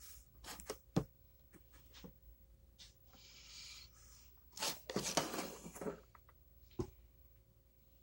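Close handling noises: several sharp clicks and a longer crackling rustle about five seconds in, like fabric or an object being moved near the microphone.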